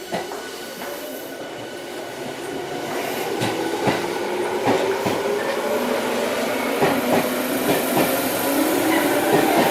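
Electric train approaching along the platform and growing steadily louder, its wheels clicking over rail joints in a regular beat, with a motor whine that drifts in pitch.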